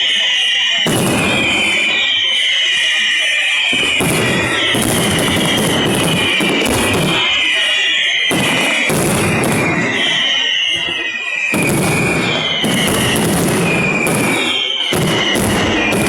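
Fireworks finale: a dense, unbroken barrage of bangs and crackling with a high, wavering shrill tone running through it.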